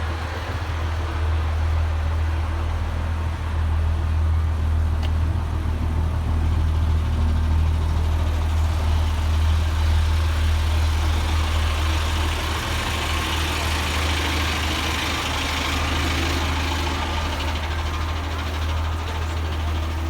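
Diesel engine of a heritage rail vehicle idling, a steady low rumble.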